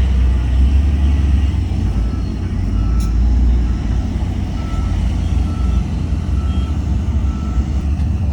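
Heavy diesel earthmoving machine running with a deep, steady rumble while its back-up alarm beeps about once a second, starting about two seconds in. A single brief click is heard about three seconds in.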